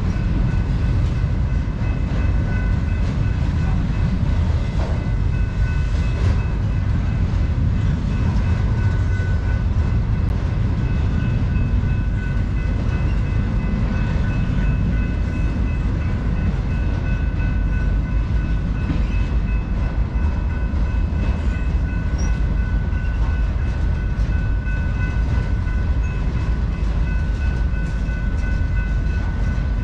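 Intermodal freight train's cars rolling past: a steady rumble of wheels on rail, with a faint steady high ringing tone above it.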